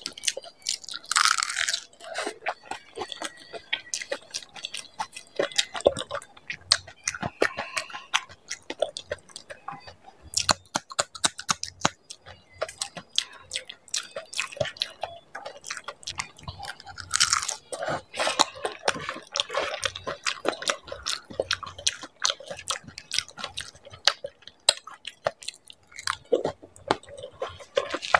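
Close-up chewing of whole dahi puri, crisp puri shells loaded with yogurt and chutney: wet crunching and crackling in quick, irregular clicks, with two louder bites about a second in and again just past the middle.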